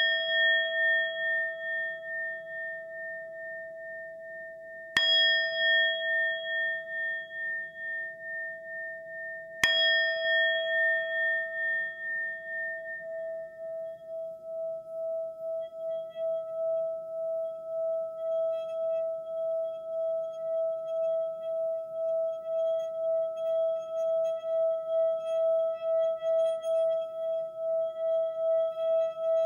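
A singing bowl struck three times, about five seconds apart, each stroke ringing out and fading. After the third stroke the tone holds on instead of dying away, slowly swelling with an even, pulsing wobble.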